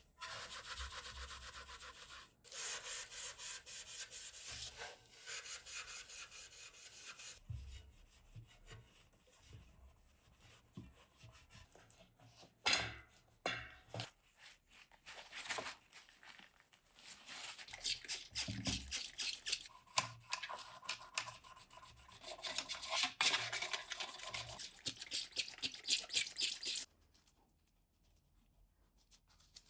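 Hand scrubbing or rubbing on bicycle parts: rapid back-and-forth strokes in several spells, with a sharp knock about 13 seconds in and a quiet stretch near the end.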